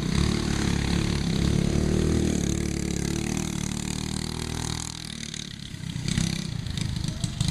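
Brand-new Briggs & Stratton Animal single-cylinder kart engine running under throttle as the go-kart is driven; the revs ease off about five seconds in and pick up again near the end.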